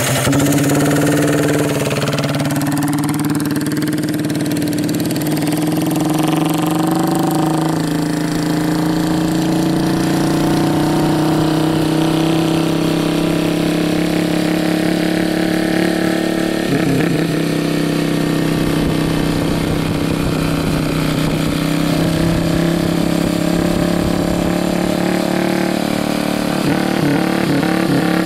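Homemade diesel motorcycle engine running steadily, its note holding nearly constant pitch, with a brief change in the sound about two-thirds of the way through.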